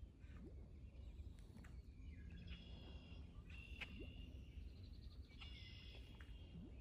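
Near silence with faint birds calling: several short, high chirps and whistles from about two seconds in, over a faint low rumble.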